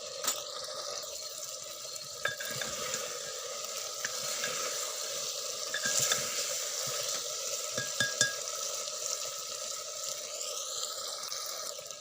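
Chicken pieces frying in oil in a pan with masala, sizzling steadily while being stirred with a spoon, which clicks against the pan a few times.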